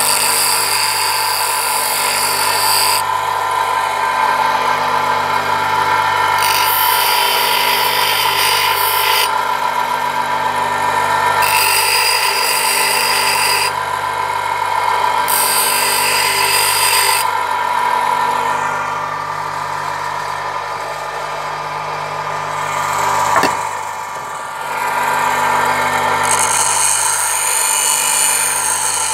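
Bench grinder running with a steady hum while a wood-carving chisel is pressed lightly against the wheel in short passes of two to three seconds each, about five grinding passes in all, with a pause and a single click late on.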